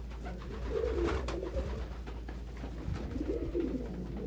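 Domestic pigeons cooing in a loft, a few low rolling coos about a second in and again near the end.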